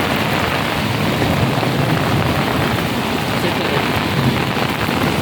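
Heavy rain falling, a loud steady hiss of drops with no break.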